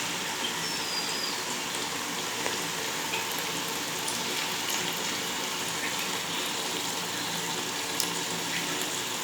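Masala chicken frying in a pot, a steady sizzle, with a light click about eight seconds in.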